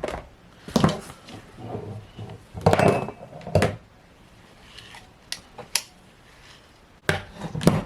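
Small objects handled and set down on a hard surface: a series of separate knocks and clatters, the loudest about a second and three seconds in, with a few more near the end.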